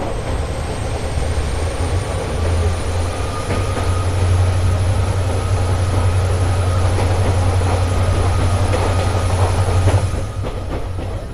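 Passenger train coaches running through a tunnel, a loud echoing rumble of wheels on rail with a thin high whine above it. The rumble drops away sharply about ten seconds in as the train comes out of the tunnel into open air.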